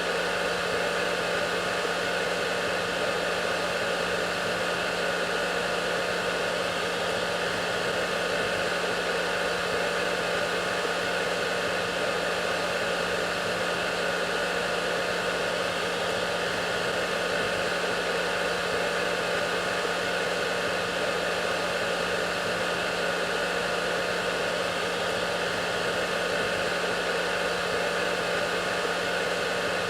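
Hair dryer running steadily: an unchanging rushing blow of air with a faint motor hum underneath.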